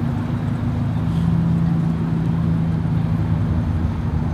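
Car engine idling: a steady low-pitched drone that holds the same pitch throughout.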